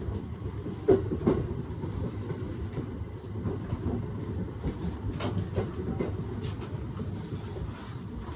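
Aoimori Railway 701 series electric train running along the line: a steady low rumble of wheels on rail, with a few clacks over rail joints about a second in and again past halfway.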